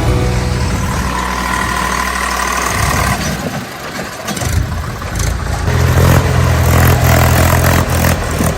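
Tractor diesel engine running steadily. Its note weakens for a couple of seconds in the middle, with some knocking, then comes back strong.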